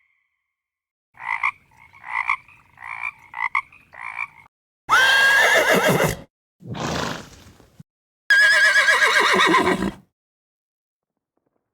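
A run of short croaking calls, about five in three seconds, then a horse neighing loudly twice, with a snort between the two neighs.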